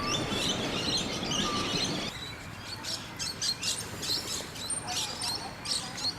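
Small parrots chirping and whistling, many short calls overlapping. A low background noise stops about two seconds in, leaving the calls.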